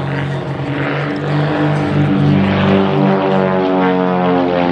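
Pitts Special aerobatic biplanes' piston engines and propellers, droning with pitch that shifts as they manoeuvre.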